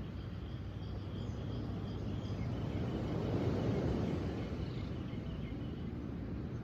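Steady low rush of ocean surf and wind, swelling to a peak about halfway through, with a faint bird chirping a quick series of short high notes in the first half.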